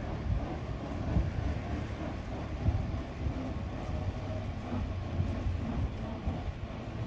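Tractor engine running with a low, steady rumble.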